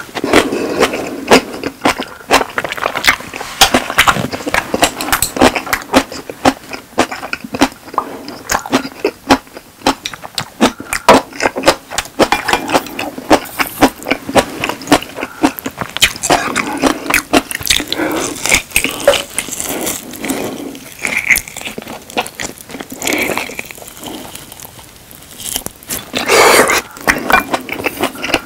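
Close-miked chewing of steak: a dense, irregular run of mouth clicks and smacks as the meat is chewed, with a short lull a few seconds before the end.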